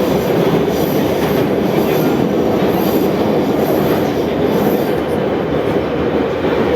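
Metro train of the 81-717/714 type running steadily between stations: a loud, even rumble of wheels on the rails and the running gear.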